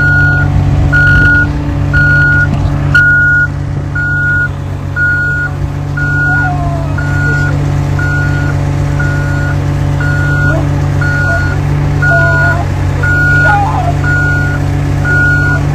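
An electronic beep of one steady pitch repeating about twice a second, over a steady low hum.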